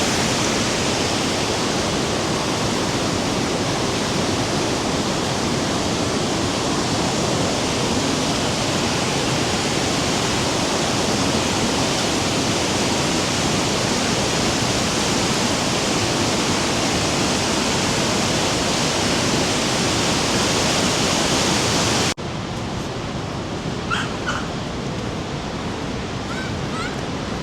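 Rhine Falls waterfall rushing as a loud, dense, steady wash of water noise. About 22 seconds in it cuts abruptly to a quieter, more distant rush with a few short high chirps.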